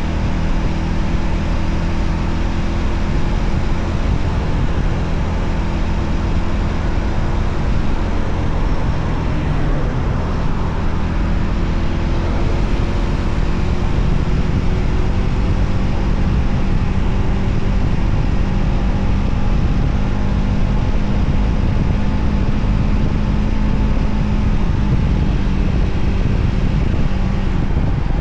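Voge 300ACX motorcycle's single-cylinder engine running steadily on the move, its pitch drifting slightly, under heavy wind rumble on the microphone.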